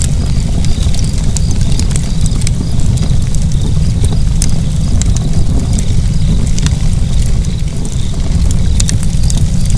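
Fire burning, with a steady low rumble of flames and frequent short, sharp crackles.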